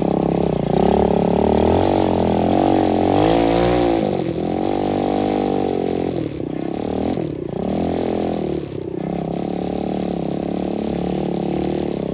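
125cc dirt bike engine running and revving, its pitch rising and falling with the throttle, with a few brief drops in revs about halfway through.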